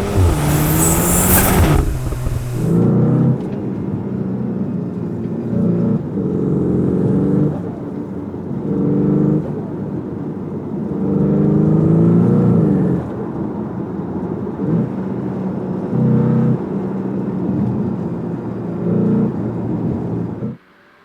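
A 2026 Cupra Formentor VZ's 2-litre inline four-cylinder engine and factory exhaust pulls hard, its pitch climbing and then dropping back at each gear change, many times over. It opens with a loud rushing burst and cuts off suddenly near the end.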